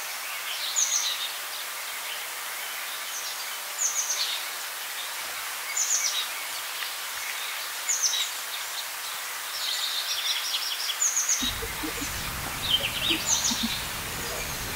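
Small birds chirping, a short call repeated about every two seconds over a steady outdoor hiss. A low rumble joins about three-quarters of the way through.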